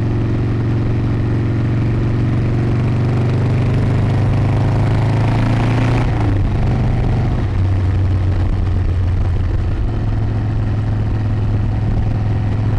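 Harley-Davidson motorcycle engine running under way, its pitch climbing steadily as the bike accelerates, then dropping sharply a little past halfway and again a second or so later, as it shifts up.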